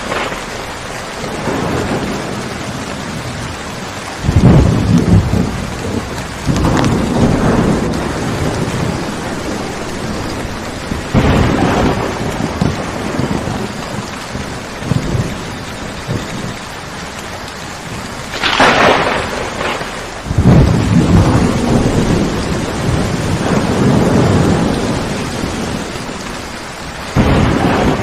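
Steady rain falling through a thunderstorm, with thunder rolling about six times: low rumbles roughly four, seven and eleven seconds in, a sharper clap about two-thirds of the way through that runs into a long rumble, and another roll near the end.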